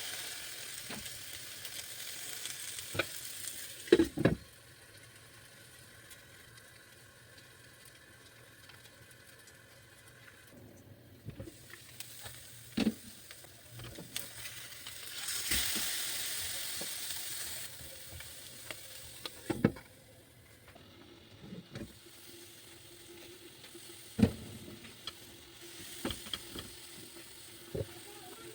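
Food sizzling in a hot pan in spells, with sharp knocks of a cooking utensil against the pan every few seconds.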